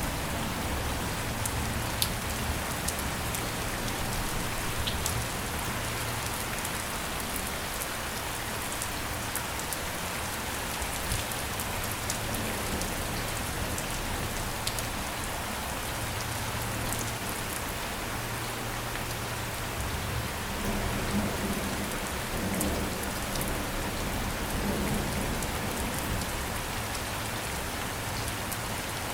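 Steady rain falling on a surface, with many separate drops ticking sharply through the hiss and a low rumble underneath.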